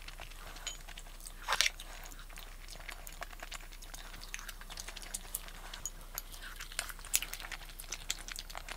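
Close-up eating sounds: a person chewing and biting food, with scattered crisp clicks and one louder crunch about a second and a half in.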